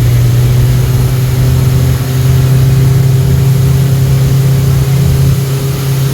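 Boat motor running at a steady speed: a loud, unchanging low hum with a few fainter steady tones above it over an even hiss.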